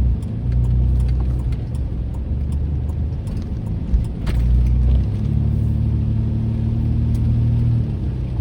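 A car being driven, heard from inside the cabin: a steady low drone of engine and road noise, with a few faint scattered ticks.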